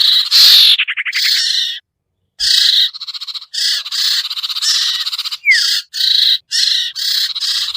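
Bird-trapping lure recording for the sirtu (cipoh, common iora): harsh, scratchy chattering calls repeated in bursts of about a second with brief gaps. There is a fast rattling trill about a second in and one quick falling note about five and a half seconds in.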